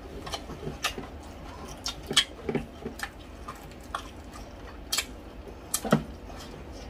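Chewing and mouth smacks of people eating crispy pata (deep-fried pork knuckle) and rice by hand: irregular sharp clicks and smacks, the loudest about two seconds in and again near six seconds.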